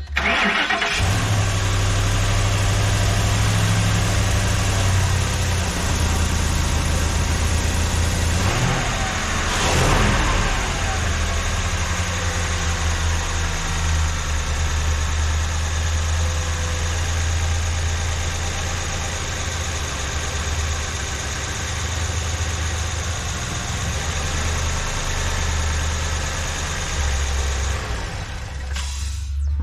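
A 2012 Ford F-250 Super Duty truck engine running at a steady idle, with a brief rise in revs about ten seconds in.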